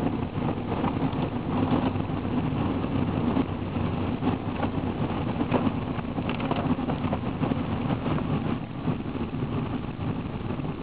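Car driving on a rain-wet road, heard from inside the cabin: steady engine and tyre noise with a low hum.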